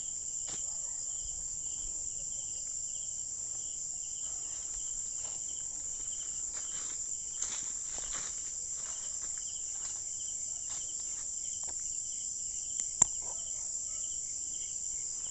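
Night insects chirring steadily in a high, continuous drone, with a lower call pulsing about twice a second underneath. Faint rustles come and go, and one sharp click sounds about thirteen seconds in.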